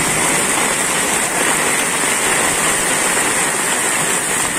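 Heavy rain pouring steadily onto a flooded street, a continuous hiss of rain on standing and running water.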